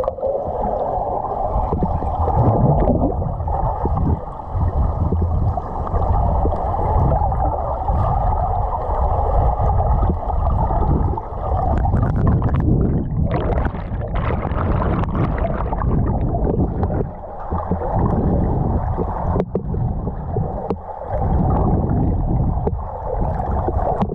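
Muffled, continuous rush and gurgle of water heard underwater. Between about halfway and two-thirds of the way through, a few seconds of brighter splashing break in.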